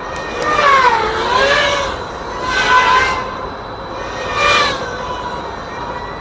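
FPV racing quadcopter's motors and HQ propellers whining in flight. The pitch swoops down and back up, then surges twice more as the throttle is worked.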